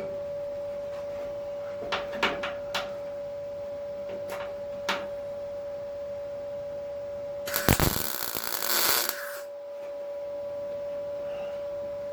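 A short burst of MIG welding, crackling for just under two seconds about two-thirds of the way in and then stopping. Before it come a few light clicks, and a steady high hum runs throughout.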